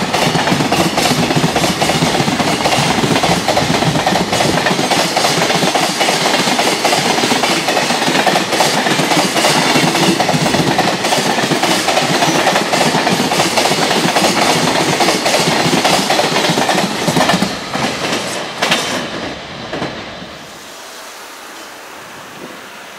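Long container freight train's wagons rolling past at speed, wheels clattering over the rail joints. The clatter breaks up and dies away about three-quarters of the way in as the end of the train goes by, leaving a quiet background.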